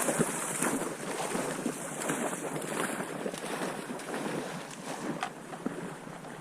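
Irregular splashing and lapping of water.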